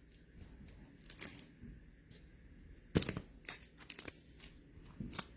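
Trading cards being handled and flipped through: soft rustling with scattered light clicks, and one sharper snap about three seconds in.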